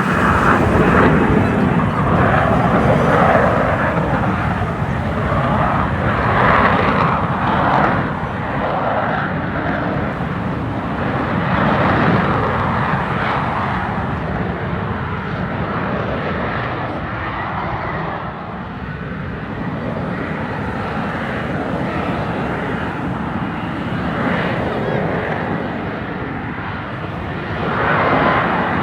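F-35B fighter jet's single Pratt & Whitney F135 engine, a loud, continuous jet noise that swells and eases several times, strongest in the first few seconds and again near the end.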